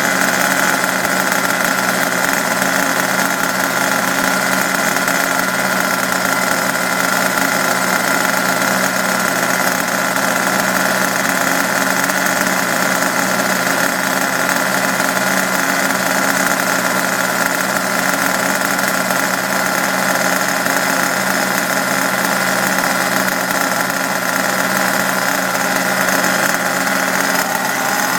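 HPI Savage X's new K-series big-block nitro engine idling steadily during its break-in. A second small nitro engine idles alongside, masked by the big block.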